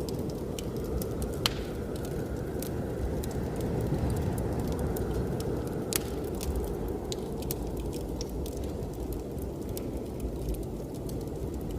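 Wood fire crackling in a fireplace, with frequent small pops and a couple of sharper snaps, over the steady low rush of blizzard wind.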